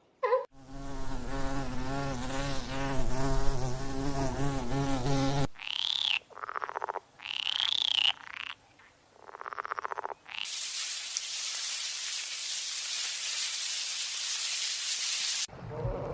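A string of separate animal-sound clips, insect-like. First a buzzing drone with a wavering pitch for about five seconds. Then several short calls that rise and fall in pitch. Near the end comes a steady high hiss for about five seconds, like cicadas or crickets.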